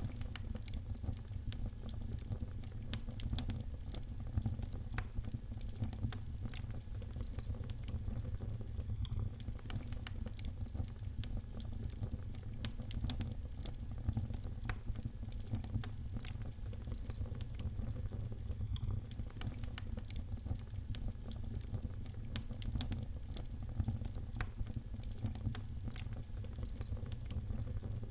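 Fire in a fireplace crackling: many small sharp pops over a steady low rumble.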